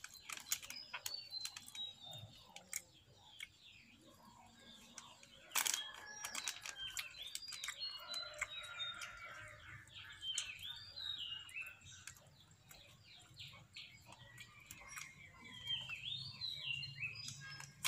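Small birds chirping and twittering in runs of short falling notes, with scattered clicks and rustles of a plastic snack packet being handled and one sharp crackle about five and a half seconds in.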